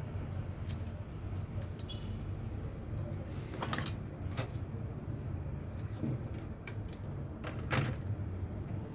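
Scattered light clicks and clinks of small hard objects being handled, with louder ones about three and a half, four and a half and near eight seconds in, over a steady low hum.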